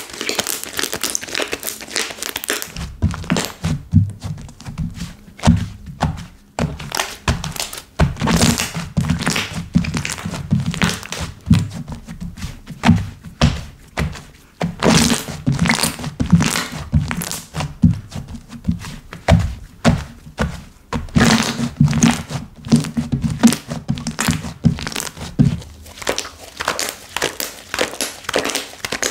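Slime being squished, pressed and stretched by hand: a continuous run of crackling clicks and pops, with dull low thuds from about three seconds in until near the end.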